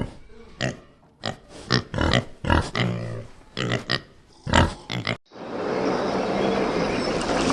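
A farm animal giving short, low calls in quick succession, about two a second. About five seconds in there is an abrupt cut to a steady rushing noise.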